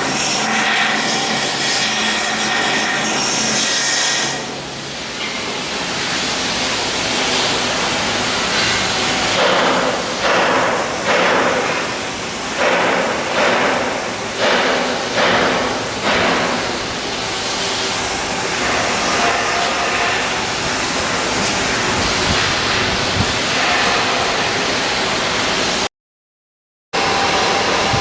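Shipyard work noise: steady machine noise, with a run of about seven harsh rasping strokes roughly a second apart in the middle. The sound cuts out completely for about a second near the end.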